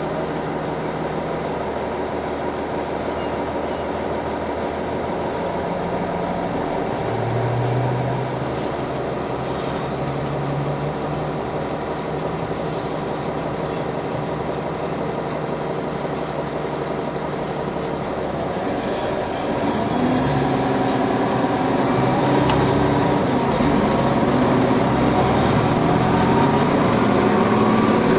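NovaBus TL-40102A low-floor city bus running, its engine drone steady for most of the stretch. About two-thirds of the way through it gets louder as the bus pulls harder, with a faint high rising whine over it.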